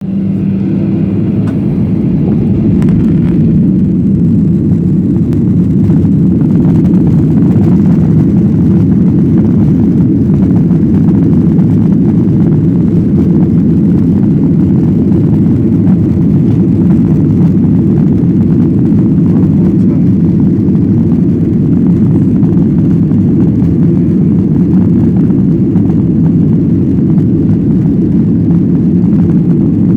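Jet airliner cabin noise during takeoff: the engines and rushing air make a loud, deep, steady rumble that builds over the first few seconds and then holds level.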